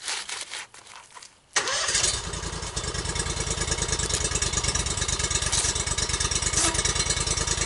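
An engine starts about a second and a half in, then runs steadily at idle with an even, rapid pulse.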